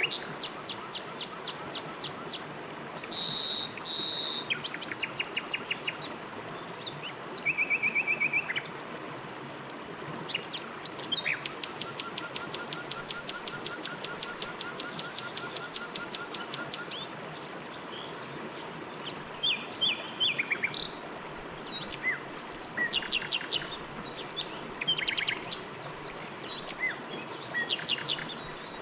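Several songbirds calling in short bouts of rapid repeated chirps and trills, some high and thin, over a steady rush of flowing river water.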